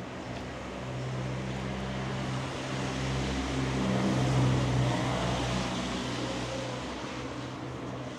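A motor vehicle passing by, its engine hum and road noise swelling to a peak about four seconds in and then fading away.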